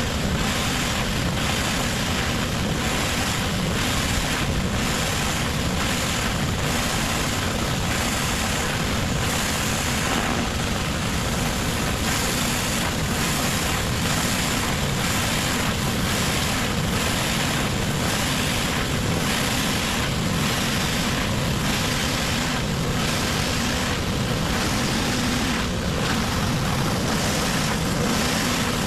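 Pressure washer running, its high-pressure water spray hissing steadily against a hard surface.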